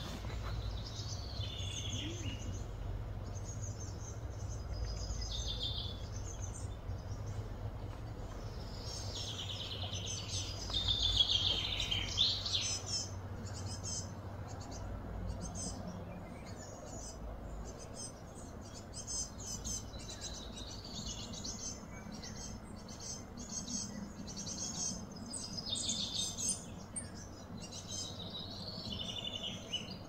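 Birds chirping and calling in short repeated phrases, busiest about a third of the way in, over a low steady outdoor rumble.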